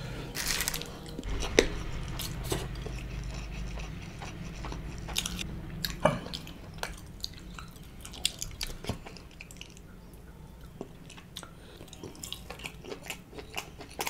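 Close-miked eating sounds: biting, crunching and wet chewing as biryani is eaten by hand, with many short clicks. The sounds are louder and denser in the first half and fainter later.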